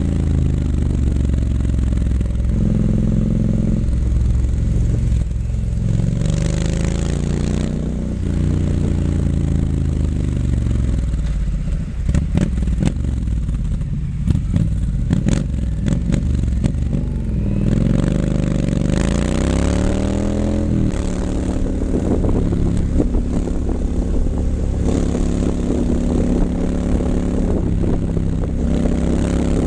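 2019 Triumph Scrambler 900's parallel-twin engine under way through an H-pipe and Vance & Hines exhaust, revs rising and falling through the gears. About halfway through the revs drop with a spell of crackling, then it revs up, shifts about two-thirds in and settles to a steady cruise.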